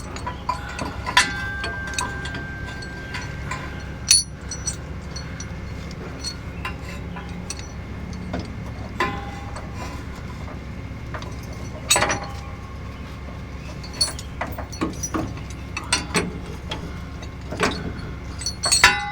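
Metal tow chains and hooks clinking and rattling now and then, some strikes leaving a short ring, over the steady low hum of an idling truck engine.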